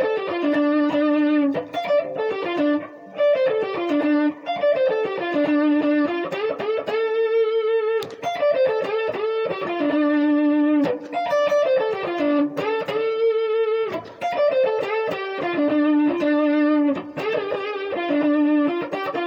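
Electric guitar playing a blues lead phrase: quick runs of short staccato notes stepping down in pitch, each ending on a held note, repeated over and over.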